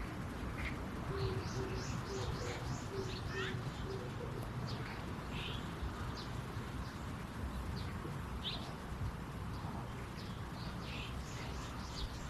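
Small birds chirping over and over in short, high, quick calls above a steady low background rumble. About a second in comes a short run of six low, evenly spaced notes.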